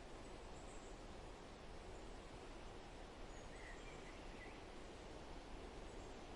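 Faint, steady outdoor background noise, with a few faint short bird chirps about three and a half seconds in.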